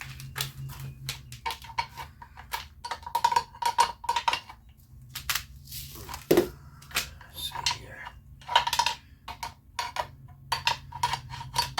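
Irregular metal clinks and clanks of hand tools against small-engine parts being handled and positioned, several of the knocks ringing briefly.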